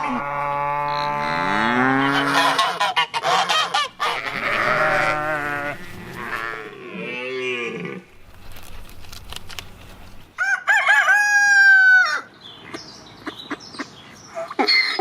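Farm poultry calling: three long drawn-out calls, the first two about four seconds each and the third, the loudest, about a second and a half, in the manner of roosters crowing and geese honking, with shorter calls between them.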